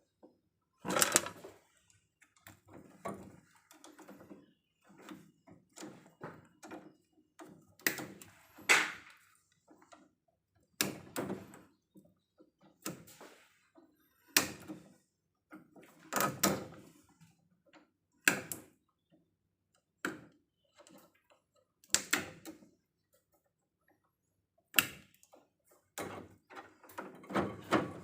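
Irregular sharp clicks, clanks and knocks with quieter rattling between them, a loud strike every few seconds, from hand tools and metal hardware being worked on an electrical distribution panel during cable repair.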